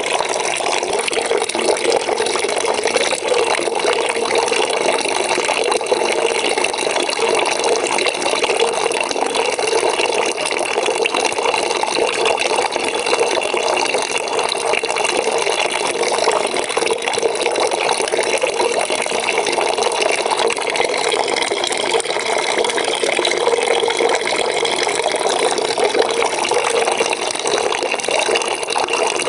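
Water running into a bucket as it fills, a steady, even splashing rush.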